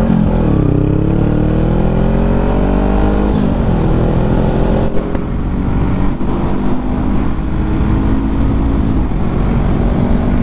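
Motorcycle engine accelerating through the gears. The revs climb, drop at an upshift about half a second in, climb again, drop at a second upshift about three and a half seconds in, then hold fairly steady.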